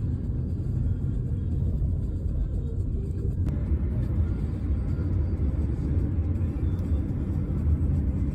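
Steady low rumble of a car on the move, with music playing underneath.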